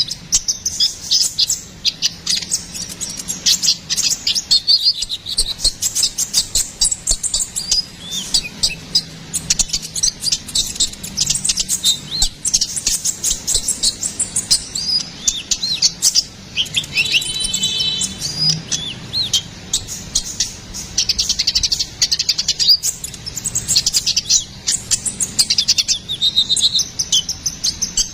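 Konin (kolibri ninja) sunbird in full song: rapid, high-pitched chirps and twitters in near-continuous bursts, with a short buzzy rattling trill a little past the middle.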